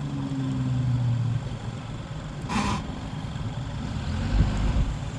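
Jeep engine revving, holding a steady note for over a second and then dropping back to a lower rumble. A brief hiss comes about halfway through.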